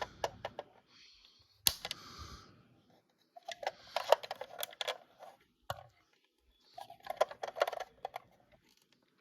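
Small clicks and light rattles of a small key and parts of a 1/32-scale diecast armored-truck bank being handled. They come in several short clusters, with a brief rustle or slide about a second in.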